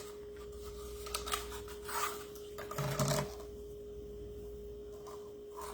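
Light rustling and clicking of craft materials, ribbon and lace, being handled on a table, a few scattered short sounds over a steady faint hum.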